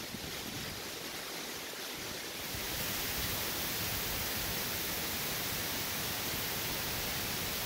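Heavy hurricane rain and wind making a steady, even hiss that grows a little louder about two and a half seconds in.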